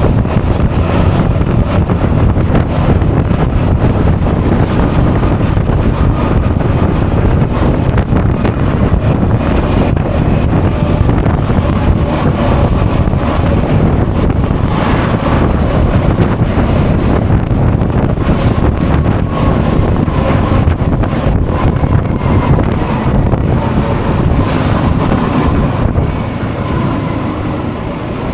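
Honda Forza 350 scooter on the move, with heavy wind rushing over the action camera's microphone and the engine humming underneath. The sound eases briefly near the end.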